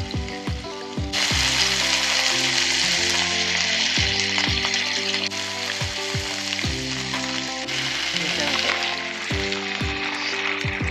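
Food frying and sizzling in a hot pan. The hiss starts suddenly about a second in and eases near the end. Background music with a steady beat plays underneath.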